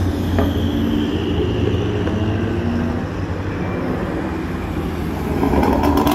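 Chevrolet Camaros driving past on a racetrack, their engines running with a steady low drone. The engine sound grows louder near the end as a second car comes by.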